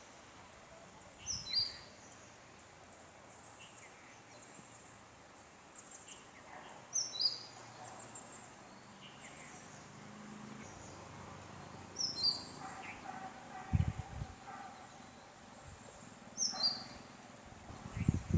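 Indian robin of the black-backed Sri Lankan race singing: a short phrase of two quick high notes, the second a step lower, repeated four times several seconds apart, with fainter chirps in between. A few low thumps come in the second half.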